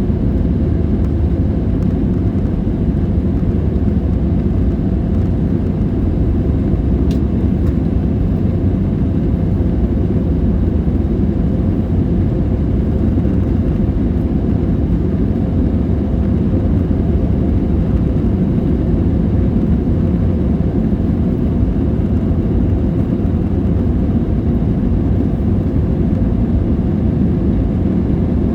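Steady jet airliner cabin noise: a low, even rumble of the engines and the air rushing past the fuselage, heard from a window seat in flight.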